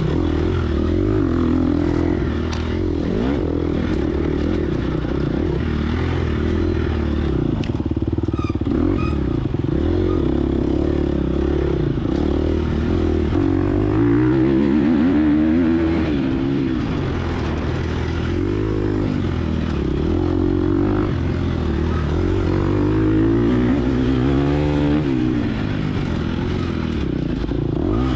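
Gas Gas EX250F dirt bike's 250cc four-stroke single-cylinder engine revving up and down continuously under race riding, its pitch rising and falling with throttle and gear changes.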